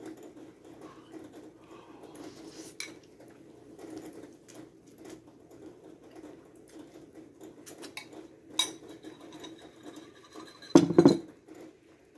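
A person eating ramen noodles off a fork: soft chewing and mouth noises with scattered small clicks and clinks of the fork. A short louder sound from the eater comes about eleven seconds in.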